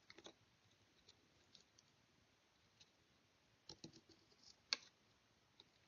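Faint, scattered clicks and scrapes of a hand tool cutting wood from a rifle stock's inletting, with the loudest click about three-quarters of the way through.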